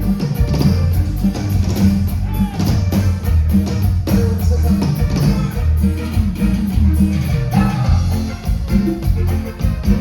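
Live Latin dance band music: a steady beat on drum kit with a heavy bass line and other instruments.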